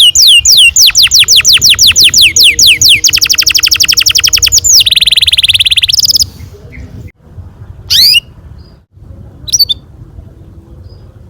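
Domestic canary singing a long rolling song: a fast series of repeated, downward-sweeping whistled notes that speeds into a quicker trill and ends in a lower buzzing roll, stopping about six seconds in. Two short chirps follow near the end.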